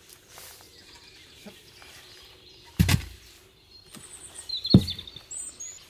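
Two heavy knocks on wood about two seconds apart, as the log bench's seat is worked into level. A bird chirps briefly around the second knock, over a quiet forest background.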